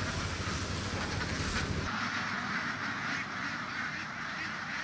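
A large flock of domestic ducks quacking together in a dense, overlapping chatter. A low rumble underneath drops away about two seconds in.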